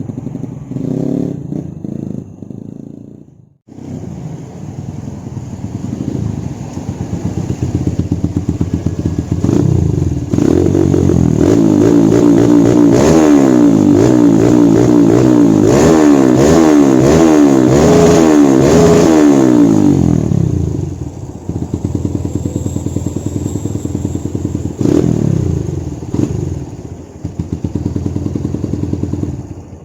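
Kawasaki KLX trail bike's single-cylinder four-stroke engine running through an aluminium aftermarket racing exhaust. It idles, then is revved up and down in rapid throttle blips for about ten seconds, then drops back to idle with one more blip. There is a brief break about three and a half seconds in.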